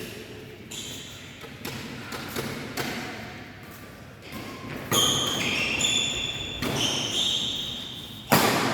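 Badminton rally: rackets hitting the shuttlecock in sharp smacks every second or two, with short high-pitched squeaks in the second half. The hardest hit comes near the end.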